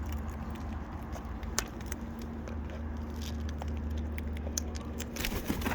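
Steady low hum of distant road traffic, with scattered light clicks and crackles over it.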